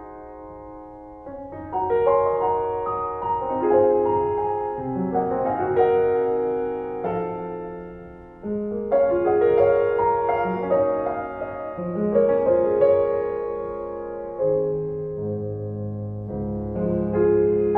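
Slow solo piano music: struck chords and melody notes that ring and fade, changing about once a second.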